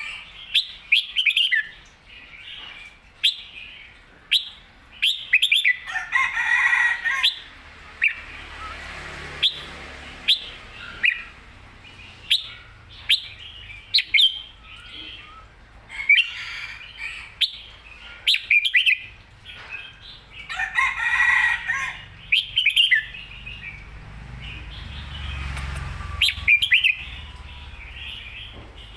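Red-whiskered bulbul singing: repeated short, bright chirping notes, with fuller warbled phrases about six and twenty-one seconds in, and scattered sharp clicks between them.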